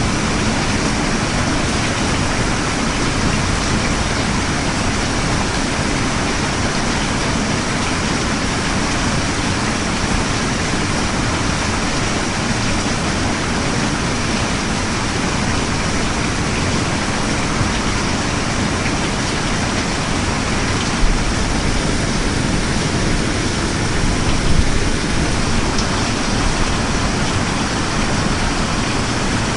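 Steady heavy rain falling, an even hiss, with two brief slight swells about two-thirds of the way through.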